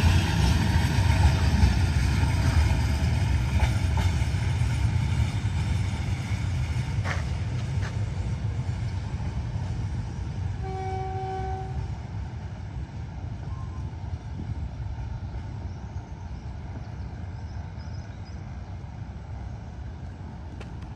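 D18E diesel-electric locomotive and its train running past, a heavy rumble that fades steadily as the train moves away. There is a clank about seven seconds in and one short horn toot about eleven seconds in.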